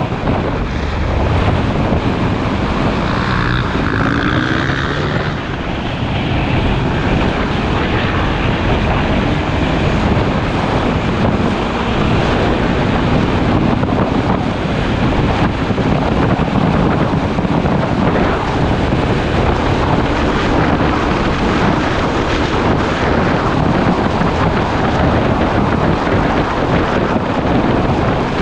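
Wind rushing over the microphone of a camera on a moving motorcycle, with the engine running underneath.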